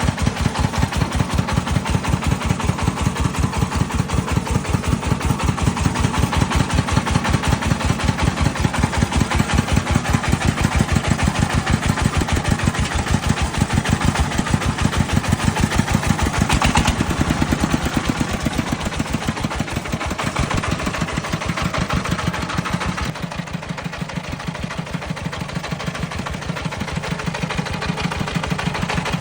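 A farm vehicle's single-cylinder diesel engine running steadily with a rapid, even thudding beat. It becomes a little quieter near the end.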